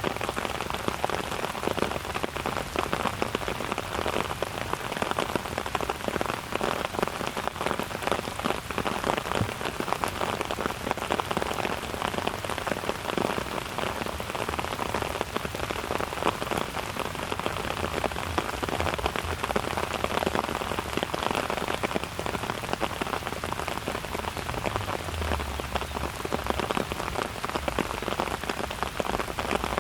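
Steady rain falling and pattering on surfaces, a dense, even hiss of countless drops that holds constant.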